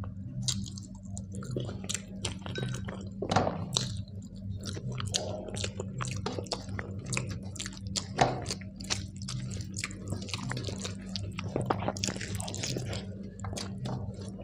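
A person chewing and smacking a mouthful of rice with dal and fish curry: many quick wet clicks and squelches over a steady low hum.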